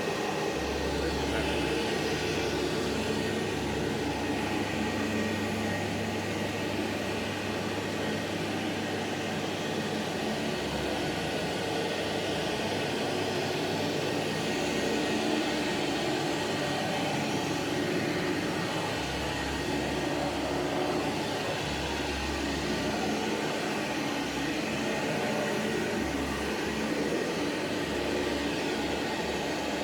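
Hamra HM61 vacuum cleaner running steadily, its motor noise constant throughout.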